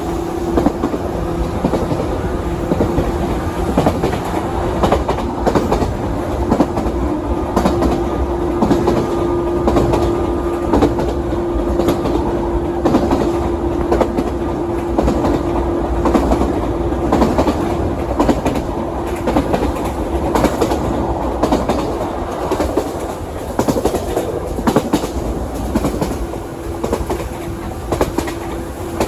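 A 117 series electric train running, heard from inside the carriage: a steady rumble of wheels on rail with a constant clickety-clack of rail joints. A steady hum runs under it and fades out a little past halfway.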